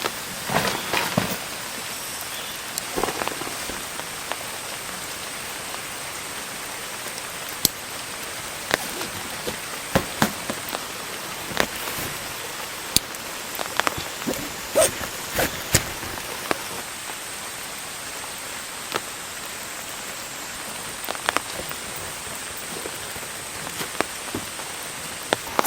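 Rain falling steadily, with irregular sharp taps of single drops striking a surface.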